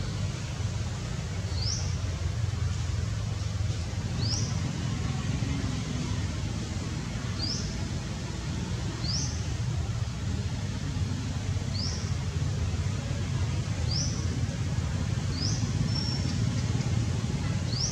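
A bird repeating a short, quick rising chirp every couple of seconds, over a steady low rumble.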